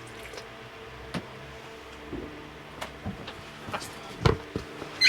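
Scattered light knocks and clicks of hands handling things, the loudest a little over four seconds in, over the steady hum of a small electric fan.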